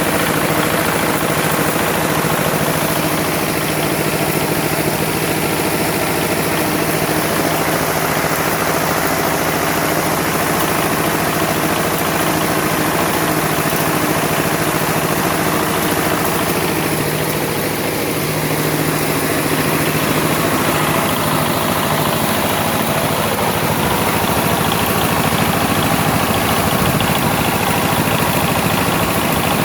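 An engine running steadily at an unchanging speed, a constant hum with no revving.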